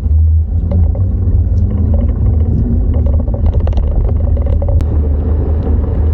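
Steady low wind rumble buffeting the microphone of a moving bicycle, with faint scattered ticks above it.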